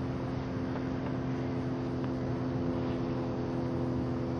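Boat engine running at a steady speed, an even low drone that does not change.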